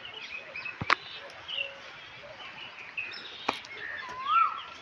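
Birds chirping and calling outdoors, with short chirps throughout and a clear whistled call that rises and falls near the end. Two sharp clicks stand out, one about a second in and one past the middle.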